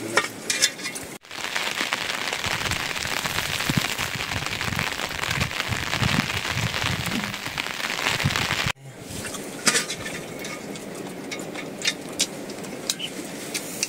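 Steady heavy rain for about seven seconds, starting and stopping abruptly, with sparse clicks before and after it.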